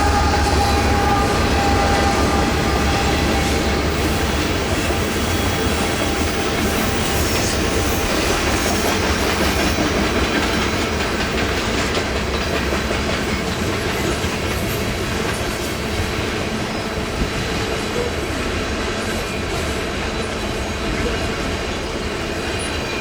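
CN freight train cars rolling past, steel wheels clicking over the rail joints in a steady rumble that slowly eases. A low engine drone from the DPU locomotive that has just passed fades away in the first few seconds.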